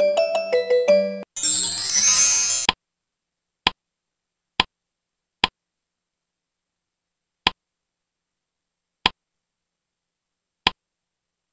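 Slide-presentation sound effects: a short electronic jingle of stepping notes, then a swooshing sweep about a second and a half in, then six short pings spaced one to two seconds apart as items appear on the slide.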